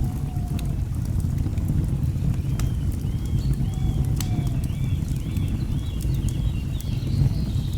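Layered nature ambience: a steady low rush of falling water under scattered sharp crackles and pops of a wood fire. From about two and a half seconds in, a bird gives a run of short, repeated high notes, about two a second, for some four seconds.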